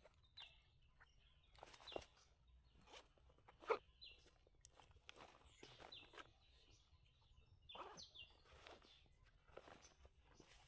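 Near silence: faint scattered rustles and soft clicks of handling or footsteps, with a few short, high, falling bird chirps.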